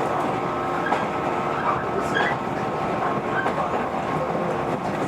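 Inside a JR 115-series electric train running on the line: a steady rumble of wheels on rail, with a steady hum of several held tones over it.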